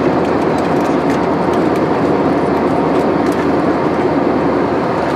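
Steady roar of engines and rushing air inside an Airbus A320's passenger cabin, with a few faint rattles.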